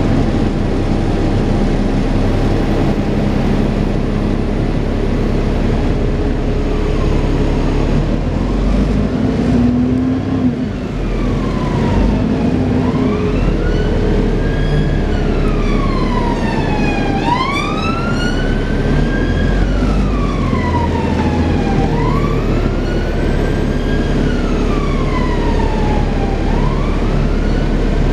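Dennis Trident 2 double-decker bus running steadily, with the whirring drone enthusiasts call "hoovering". From about a third of the way in, an emergency vehicle's wailing siren rises and falls about every four and a half seconds. Briefly near the middle, a quicker warbling siren sounds over it.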